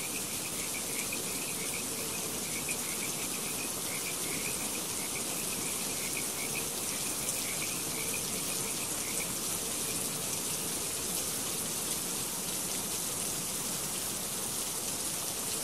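Steady hiss of water running and splashing in a rainforest paludarium's flowing-water feature. Over it, a run of short high chirps repeats for most of the first two-thirds, then stops.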